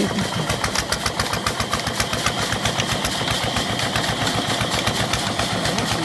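Diesel engine running steadily, with a rapid, even beat of exhaust pulses.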